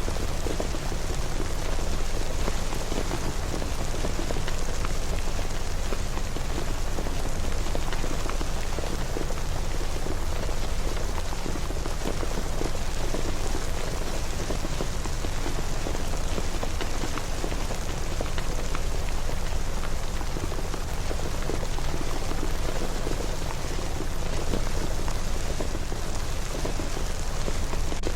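Steady rain falling, an even dense hiss of drops with no change in strength.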